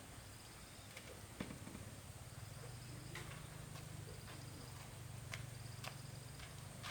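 Faint scattered taps and clicks, with short high chirps repeating and a low hum that comes in a couple of seconds in.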